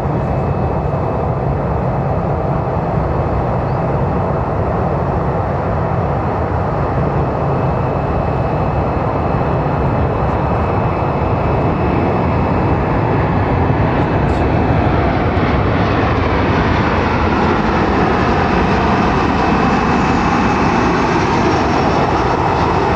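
Jet airliner's engines running loud and steady, with a thin high whine over the noise; in the second half, tones in the sound begin falling in pitch as the aircraft passes.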